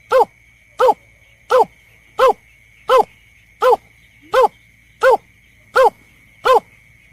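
Bird-lure recording of the berkik (belkek) call: a short, downward-sliding note repeated evenly, about three every two seconds, eleven in all. A faint steady high whine runs underneath.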